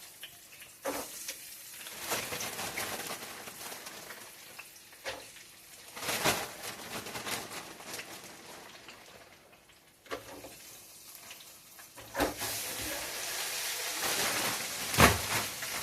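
Crinkle-cut french fries frying in hot oil, a steady sizzle, with several sharp knocks mixed in, the loudest near the end.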